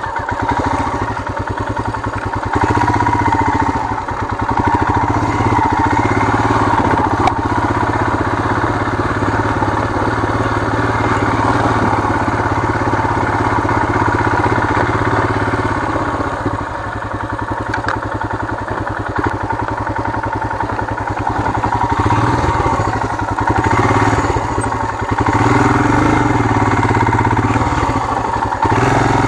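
Royal Enfield Himalayan's single-cylinder engine pulling at low speed over rocky off-road ground. The engine note falls back for a stretch in the middle and picks up again near the end.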